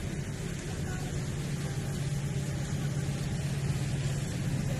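Train running with a steady low engine hum under broad rumbling noise, slowly getting louder.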